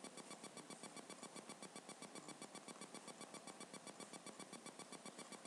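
Near silence: faint room tone with a steady hiss that flutters at about six pulses a second.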